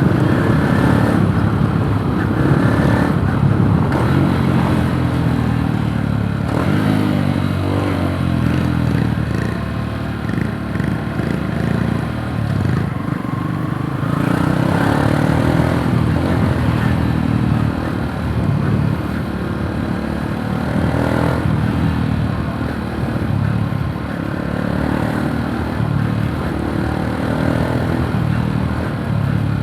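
Yamaha YTX 125 café racer's single-cylinder four-stroke engine running under way. Its pitch rises and falls several times as it accelerates and eases off.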